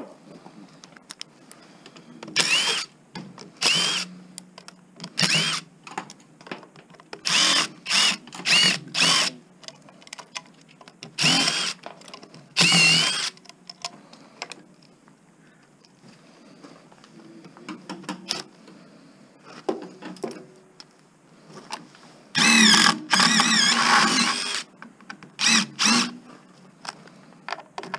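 Power drill-driver run in short bursts, each a brief rising whine, about a dozen times, backing screws out of a rusty power supply casing. Near the end there is a longer run of several bursts close together.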